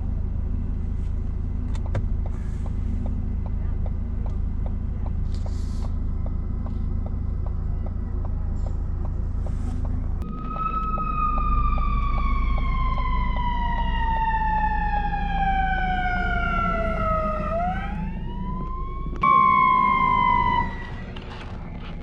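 An emergency vehicle's siren winds slowly down in pitch for several seconds, sweeps back up, then gives a short loud blast that cuts off suddenly. Under it runs a steady low engine rumble, with regular ticking about twice a second in the first half.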